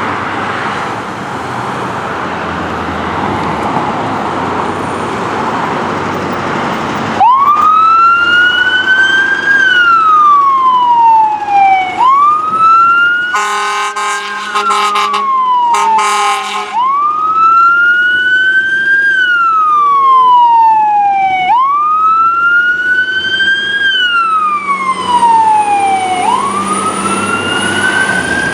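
A fire engine's siren starts about seven seconds in, after a steady rushing noise, and wails in a slow cycle, rising quickly and falling away about every four and a half seconds. Partway through, the engine's horn blasts twice over the wail.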